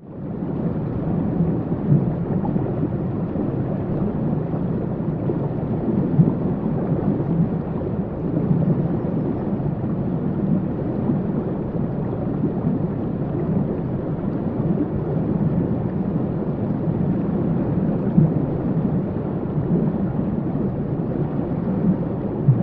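Waterfall: a steady, deep rush of falling water, heavy in the low range, fading in at the start.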